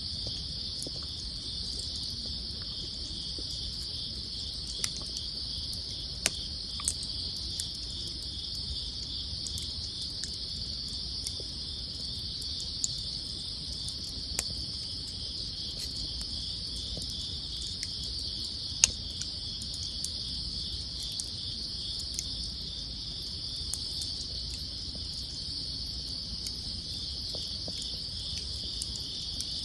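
Wood campfire crackling, with scattered sharp pops, the loudest two about six and nineteen seconds in, over steady insect chirping.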